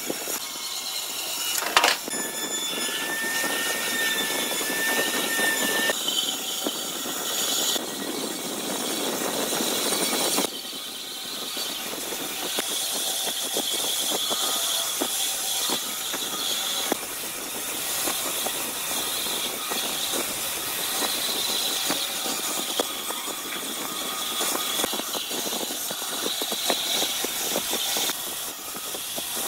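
Steady, loud mechanical machine noise with a hiss, changing abruptly in character several times, with a sharp knock about two seconds in.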